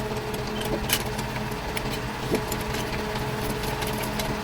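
A motor or engine running steadily, with scattered light clicks and taps over it.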